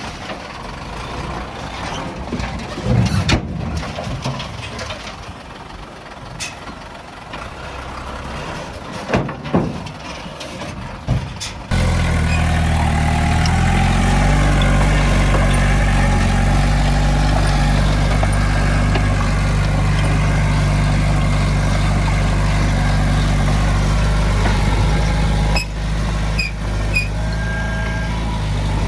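Diesel engines of heavy earthmoving machinery at work: rough mechanical running with scattered clanks and squeaks at first, then about twelve seconds in a loud, steady low diesel engine sound comes in suddenly and holds.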